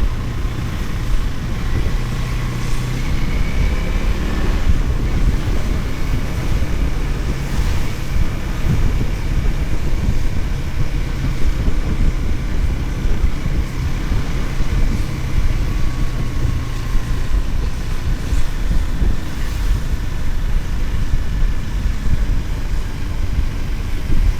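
Motorcycle riding along a road, with heavy wind buffeting on the microphone and the engine's steady hum underneath. The hum drops away about two-thirds of the way through.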